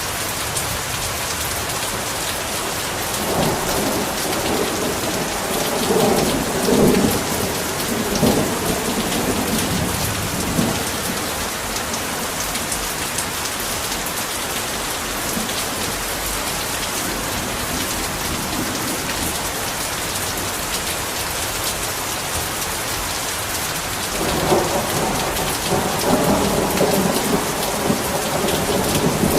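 Heavy rain falling steadily, with rolling thunder rumbling twice: once from about three seconds in to about eleven, and again in the last few seconds.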